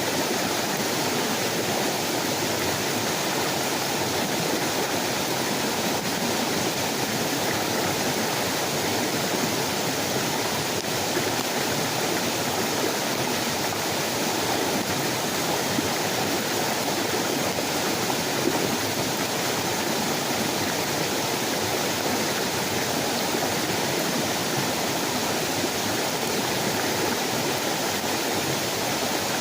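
Steady, even rushing of water, loud and unbroken, with no change in level.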